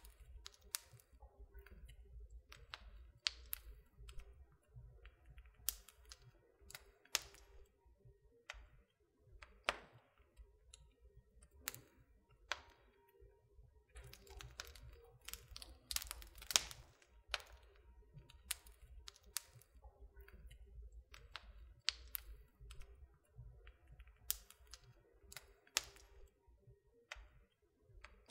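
Wood fire crackling in a fireplace: irregular sharp pops and snaps of burning wood, some in quick clusters, over a faint low rumble.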